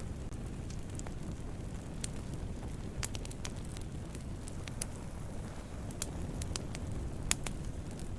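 Wood campfire burning: a steady low rumble of flames with scattered sharp crackles and pops, one louder pop near the end.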